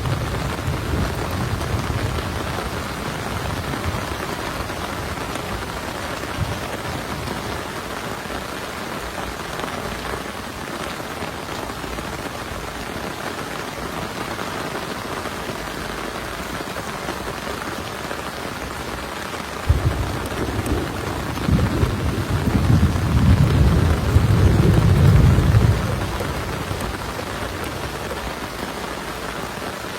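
Heavy rain falling steadily in a thunderstorm. A rumble of thunder fades away at the start, and about twenty seconds in a sharp clap of thunder breaks and rolls on for several seconds.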